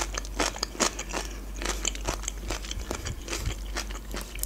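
Close-miked chewing of a mouthful of fresh cucumber: irregular wet crunches, several a second.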